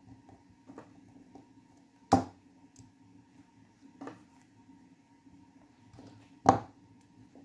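Sharp clicks and knocks of hands working a small plastic electrical plug as it is opened up: two loud ones, about two and six and a half seconds in, and a softer one between, with small ticks and a faint steady hum underneath.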